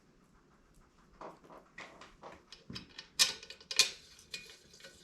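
Metal parts and tools being handled: an irregular run of sharp clicks and clinks that grows louder, with the two loudest strikes about three and four seconds in.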